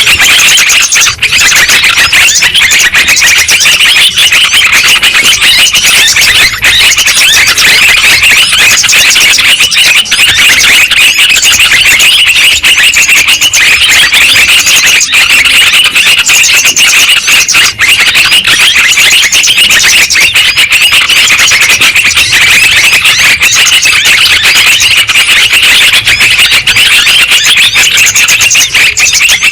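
Yellow-vented bulbul (trucukan) lure recording: dense, nonstop overlapping chattering calls, played very loud.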